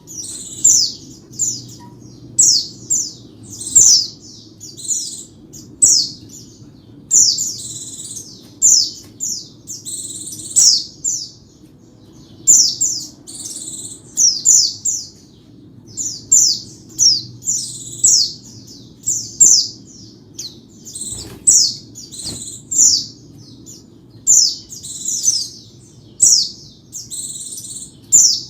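White-eye (pleci) singing: quick, high, chirpy phrases of falling notes, one to two a second with short pauses, over a faint low steady hum.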